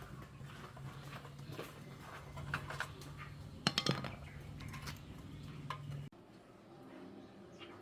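Metal parts and hand tools clinking and knocking during engine repair work, with a cluster of sharper clinks a little before halfway, over a steady low hum that cuts off about six seconds in.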